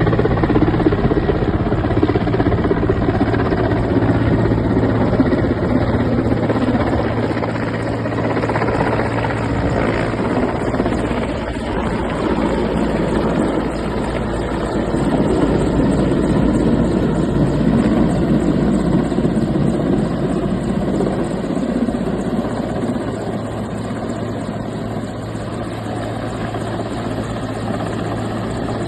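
Steady low engine drone under a loud, continuous rushing noise, with no breaks.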